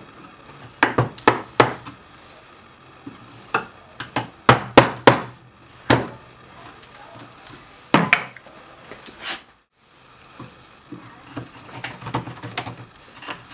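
Irregular sharp knocks on wood, some singly and some in quick runs of three or four, like hammer or mallet strikes or boards being knocked together in the workshop.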